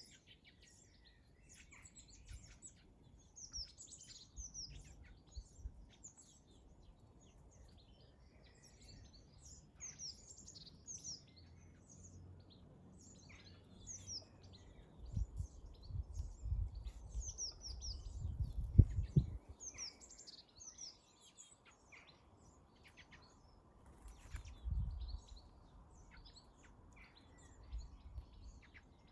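Small garden birds chirping repeatedly in short high calls all the way through, with low rumbles in the middle and again later.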